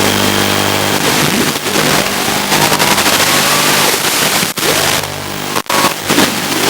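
Brushless motors of a toothpick FPV quadcopter on tri-blade props whining and shifting in pitch with the throttle, under a heavy hiss of static. The sound cuts out for an instant twice, a little after the middle.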